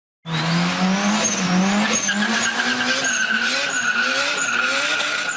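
Car engine running hard with its pitch rising again and again, over high squealing like tyres skidding. It starts suddenly and keeps on steadily throughout.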